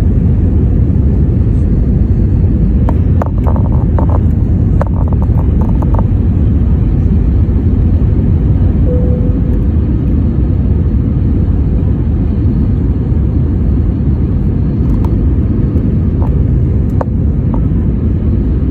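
Steady low roar of an airliner cabin in flight, the engines and rushing air blending into one even rumble. A few faint clicks and taps come a few seconds in and again near the end.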